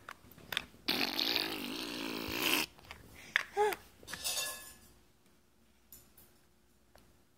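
A toddler blowing a spluttering, raspberry-like blow for about a second and a half, then a short rising-and-falling squeak and a smaller puff of blowing.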